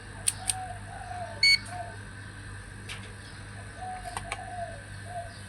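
A short electronic beep about one and a half seconds in, with a few sharp clicks over a steady low hum and faint chirps.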